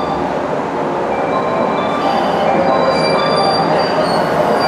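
JR West 103-series electric train rolling slowly alongside a platform as it pulls in. Its wheels and brakes give a scatter of short high squeals over a steady rolling rumble.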